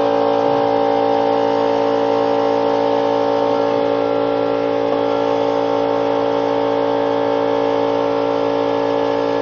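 A steady mechanical hum from a motor running continuously, unchanging in pitch and level.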